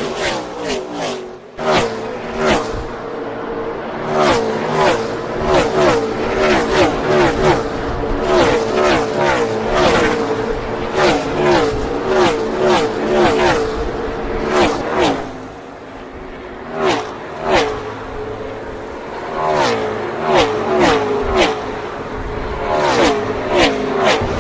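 Gen 6 NASCAR stock cars' V8 engines at race speed, passing one after another in quick succession, each pass dropping in pitch as it goes by. The cars thin out briefly past the middle, then close up again.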